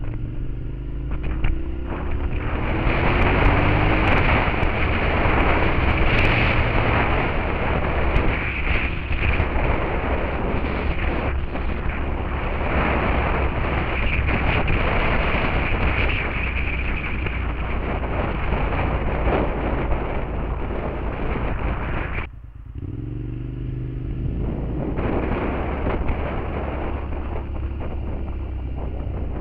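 Suzuki SV650S V-twin engine through a Beowulf aftermarket exhaust, heard from on the bike as it accelerates, its pitch rising. For most of the time heavy wind rushing over the microphone covers the engine. About 22 seconds in the wind noise drops away suddenly and the engine is heard pulling up through the revs again before the wind comes back.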